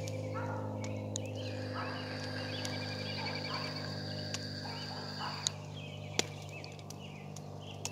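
Small birds chirping and trilling in short phrases over a steady low hum, with a thin high tone held for a few seconds in the middle and a few sharp clicks near the end.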